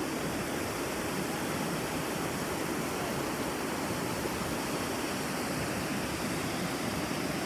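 Steady, unbroken rush of fast-moving water.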